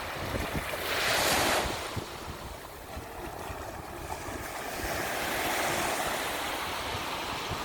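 Sea waves breaking on a beach: one wave crashes about a second in, and a longer wash of surf swells up past the middle. Wind buffets the microphone throughout.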